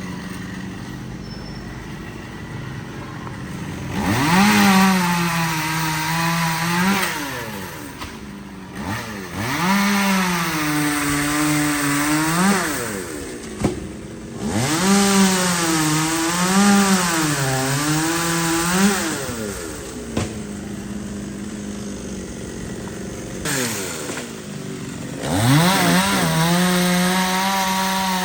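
Chainsaw revved up four times, its pitch sagging and wavering for a few seconds each time while cutting, and dropping back to idle in between.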